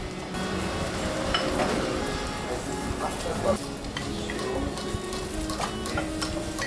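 Food sizzling as it fries in a pan or fryer, with scattered clicks and clinks of kitchen utensils.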